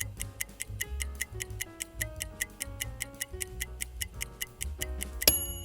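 Quiz countdown-timer ticking, about five ticks a second, over background music with a bass line. Near the end a loud bright chime rings out, marking the end of the countdown.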